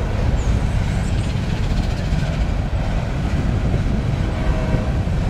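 Hopper cars of a Union Pacific coal train rolling slowly across a railroad bridge: a steady, low rumble.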